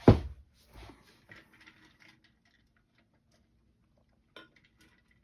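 A sharp knock, then light rustling and scattered small clicks as the paper pattern and fabric pieces are handled at the sewing table.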